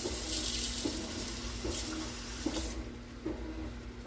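Kitchen tap water running, then shut off about two-thirds of the way through.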